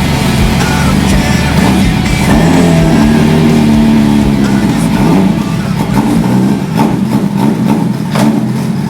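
Turbocharged Suzuki Bandit 1216cc motorcycle engine running and revving, its pitch rising and falling around the middle, with rock music playing over it.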